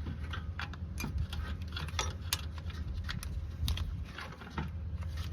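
Irregular light metallic clicks and taps of hands and tools working on the AC compressor's mounting stud and bolts, over a steady low hum.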